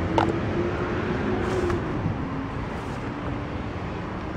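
Steady background vehicle noise with a faint wavering hum, and a single short click just after the start.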